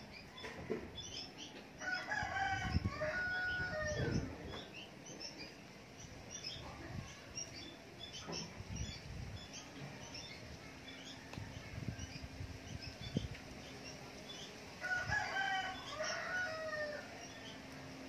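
Bird calls: two louder, drawn-out calls of about two seconds each, one about two seconds in and one near the end, with faint high chirps scattered between and a few soft knocks.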